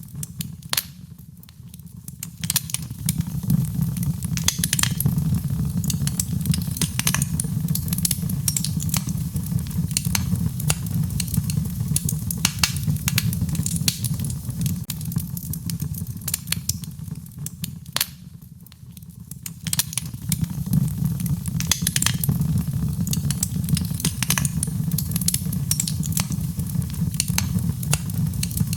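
Wood fire crackling, with frequent sharp pops over a low steady rumble, mixed with rain. The whole sound dips briefly twice, about a second in and a little past the middle.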